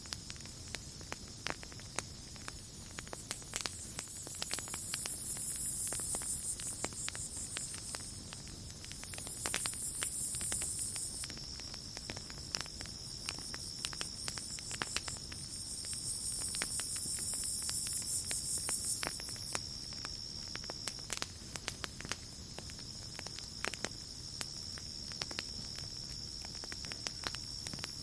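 Campfire crackling, with frequent sharp pops and snaps of burning wood, over a steady high-pitched trill of night insects. A higher, louder insect buzz swells in three bouts of a few seconds each.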